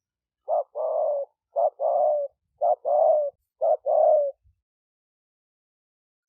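A dove cooing four times, each call a short note followed by a longer, slightly falling coo, about one call a second.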